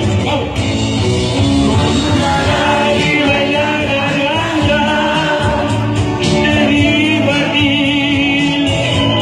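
Live music with singing, loud and continuous.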